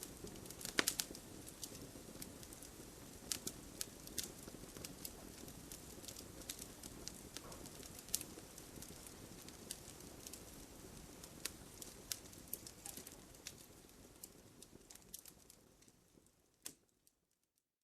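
Wood fire in a fireplace crackling, irregular sharp pops over a low steady rumble of burning. The fire sound fades away near the end, with one last pop just before it cuts to silence.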